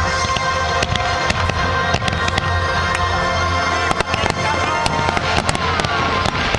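Fireworks going off in a rapid string of bangs and crackles, with music playing steadily underneath.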